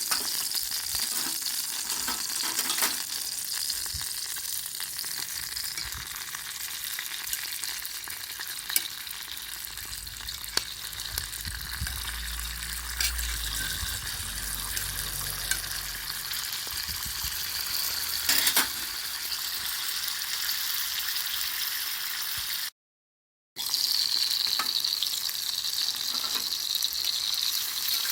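Food sizzling steadily in a pan over a fire-pit stand, with scattered sharp clicks and ticks. The sound drops out for under a second near the end.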